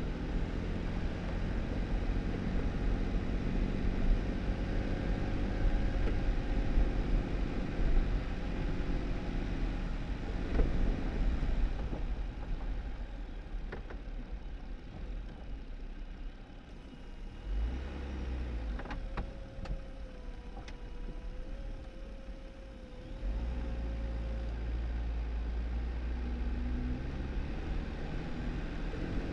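2018 Jeep Wrangler driving, its engine running steadily with tyre and road noise. The engine eases off about halfway through, then picks up again near the end.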